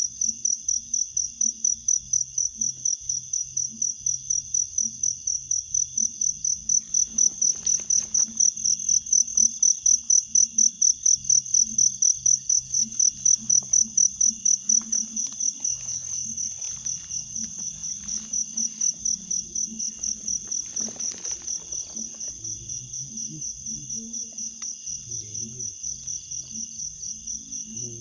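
High-pitched insect chirping, typical of a cricket, pulsing in a rapid, even rhythm throughout.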